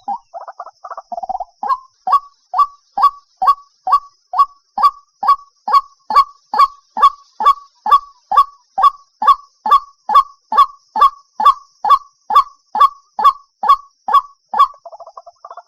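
White-breasted waterhen calling. It opens with a fast croaking chatter, then settles into a long run of loud, evenly spaced single notes a little over two a second, and breaks back into chatter near the end.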